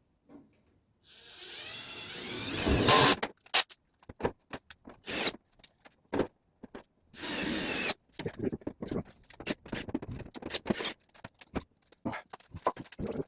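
Electric drill spinning up and boring through layered thin sheet metal, its pitch rising to the loudest point about three seconds in. A string of short trigger bursts and clicks follows, with another longer run of drilling near eight seconds.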